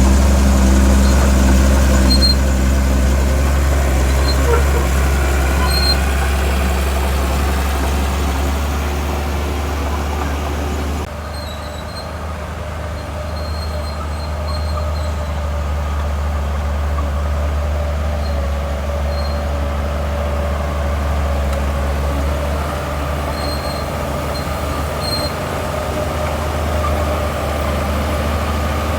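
Heavy diesel engine of earthmoving machinery running steadily under load, with a sudden drop in level and change in tone about eleven seconds in.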